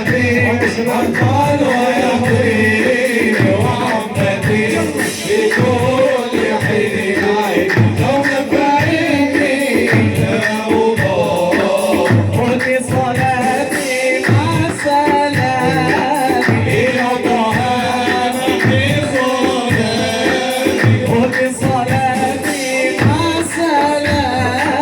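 Male voices singing an Arabic religious chant (inshad), lead and group, over a steady drum beat.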